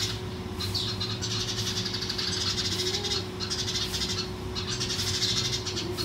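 Birds giving repeated harsh, high-pitched scolding calls, the alarm calls of birds mobbing a cat.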